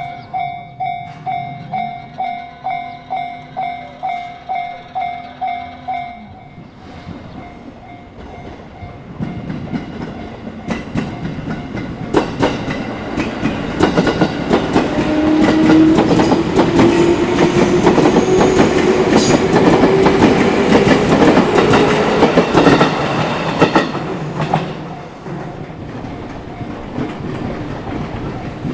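Japanese level-crossing warning bell ringing in quick, even pulses for the first few seconds over a held lower tone. Then an electric train on the JR Minobu Line passes close by: wheels clatter over the rail joints, growing loud, with a whine rising steadily in pitch through the loudest part, and the noise eases off near the end.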